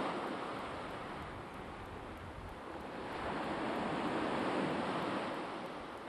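Sea waves washing on the shore: a steady rush of surf that swells to a peak about two-thirds of the way through, then eases off.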